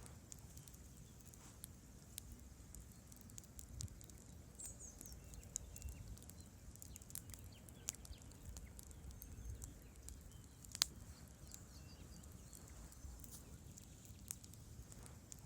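Wood campfire crackling faintly: scattered sharp pops and snaps from the burning logs over a low hum, with one louder crack about eleven seconds in.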